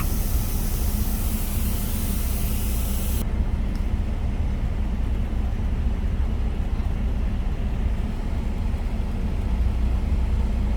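Steady low rumble of an idling truck engine, with a high hiss over it that cuts off abruptly about three seconds in.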